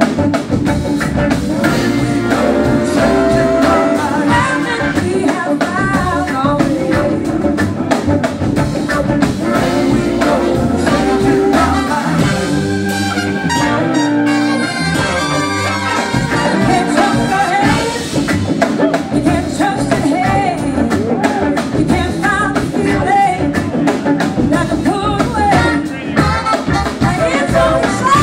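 Blues-rock band playing live: drum kit, a horn section and a singing voice over the full band.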